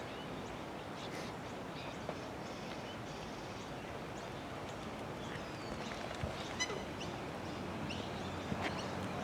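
Scattered short bird calls and chirps, one clearer pitched call about two-thirds of the way through, over a steady wash of outdoor background noise.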